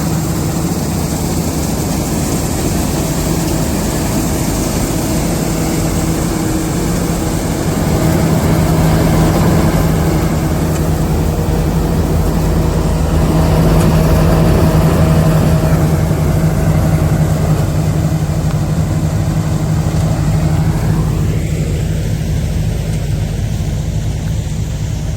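Kartar combine harvester running steadily with a continuous diesel drone while cutting wheat, swelling a little louder twice.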